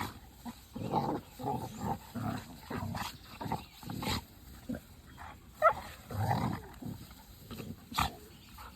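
Dogs play-fighting, making short rough growling sounds in irregular bursts, with a few sharp snaps or clicks.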